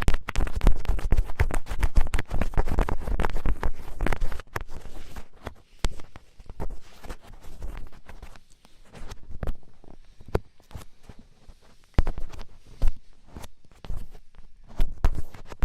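Firm ear-pick scratching (kari-kari ear-cleaning sounds): rapid, dense scratches for about the first four seconds, then sparser, lighter strokes.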